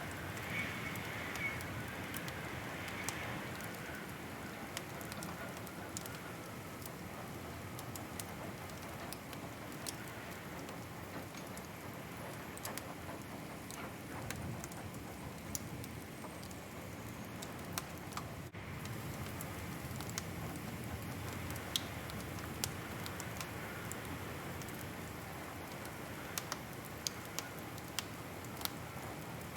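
Wood fire crackling in a fireplace: irregular sharp pops and snaps over a steady soft hiss of the burning logs.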